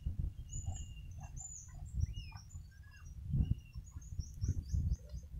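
Small birds chirping, a string of short high notes, over a low uneven rumble with a few louder bumps.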